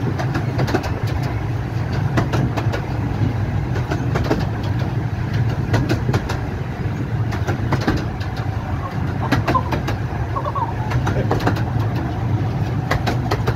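A 15-inch-gauge Romney, Hythe and Dymchurch Railway train running: a steady low rumble with irregular sharp clicks of the wheels over the rail joints.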